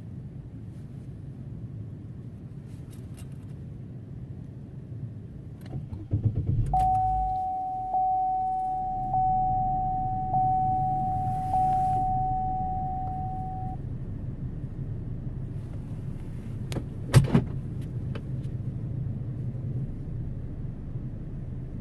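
Car engine idling with a low hum. About six seconds in there are clicks, then a dashboard warning chime sounds about five times, roughly once a second, and stops. A sharp knock follows a few seconds later.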